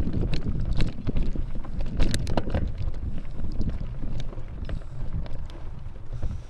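Wind rumbling on an action camera's microphone while a bicycle rides over a rough dirt trail, with frequent irregular clicks and rattles.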